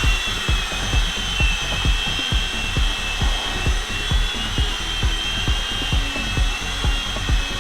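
Several Blade mCX2 micro coaxial helicopters hovering together, their small electric motors and rotors making a steady high whine of a few slightly wavering tones. A regular low thumping beat runs underneath.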